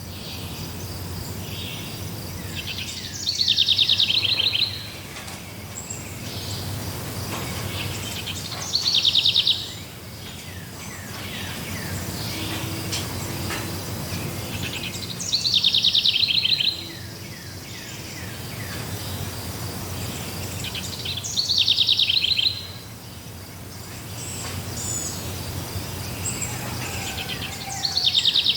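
A songbird repeats the same short trilled song about every six seconds, five times; each phrase lasts about a second and drops a little in pitch. Under it runs a steady forest background hiss with a low rumble.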